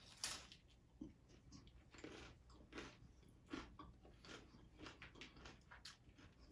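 Faint close-up crunching of a hard-shell taco being chewed, the crunches coming about once or twice a second.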